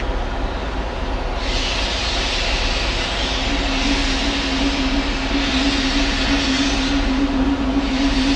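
A railway locomotive running with a steady roar, waves of hissing that swell and fade every few seconds, and a steady hum that comes in about three seconds in.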